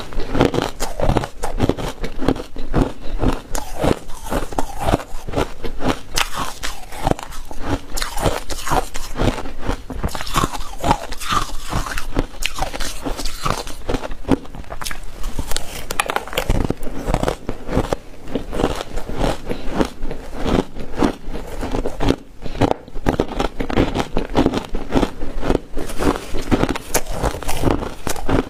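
Ice being bitten and chewed close to the microphone: continuous crunching with rapid cracks and crackles.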